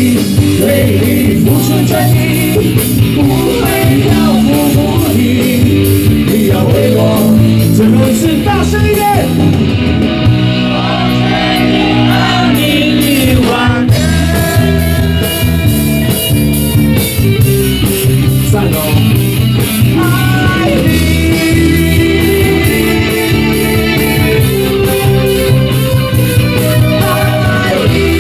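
Live rock band playing, a guitar melody over bass and drums.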